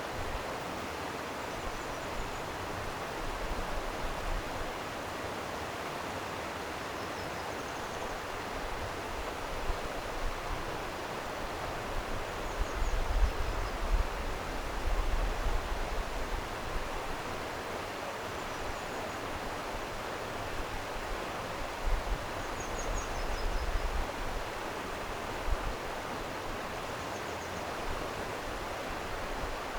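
Stream water flowing steadily, with low rumbles that come and go. A faint high bird call sounds every few seconds.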